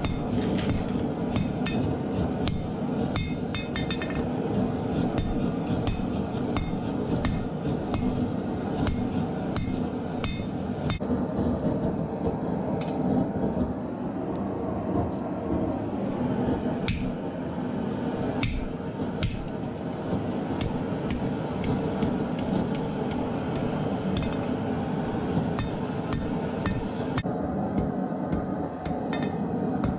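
Hammer blows on hot steel over an anvil while a kitchen knife blade is forged out, struck repeatedly at an uneven pace of about one or two a second, each blow a sharp ringing clink. A steady roar runs underneath.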